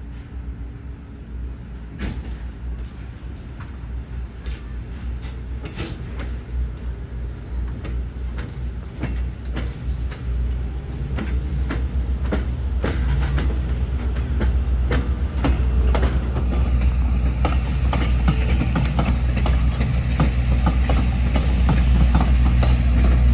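EMD FP7 diesel-electric locomotive approaching, its engine rumble growing steadily louder, with wheels clicking over the rail joints.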